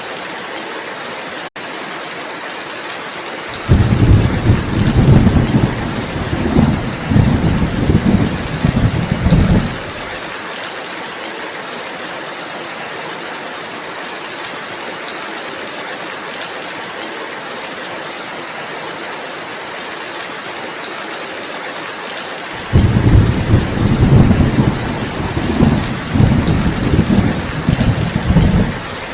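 Steady rain with two long rolls of thunder, each about six seconds of low rumbling. The first begins about three and a half seconds in and the second about twenty-three seconds in, and both start and stop abruptly. The rain hiss drops out for an instant about a second and a half in.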